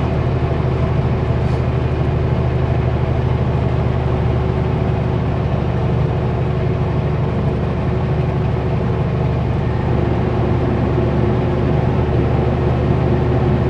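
Kenworth W900L semi-truck's diesel engine running steadily under way, a deep, even drone with a steady hum and road noise and no change in pitch.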